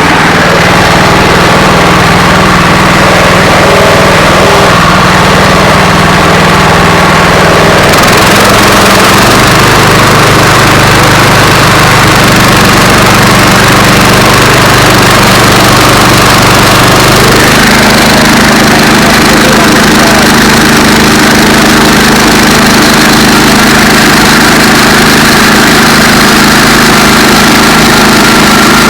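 Gasoline engine of a Central Machinery portable bandsaw mill running steadily and loud while it cuts a walnut log. Its note drops about a third of the way in and rises again past halfway as the load on the blade changes.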